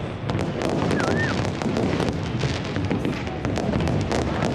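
New Year fireworks display: a steady rumble of shell bursts overlaid with dense, rapid crackling from many shells going off at once.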